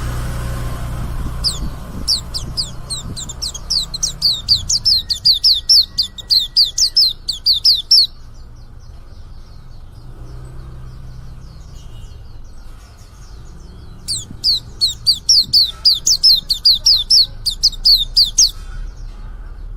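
Young male white-eye (pleci) singing two long runs of rapid, repeated high down-slurred notes, each lasting several seconds, with a pause of about six seconds between them. This is the young bird just beginning to sing.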